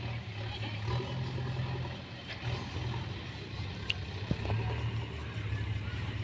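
Mahindra tractor's diesel engine running with a steady low drone.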